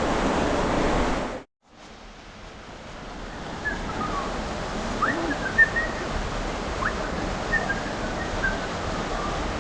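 Steady rushing of creek water flowing through a narrow canyon. The sound cuts out about a second and a half in and fades back up. Faint short high bird chirps come over the water from a few seconds in.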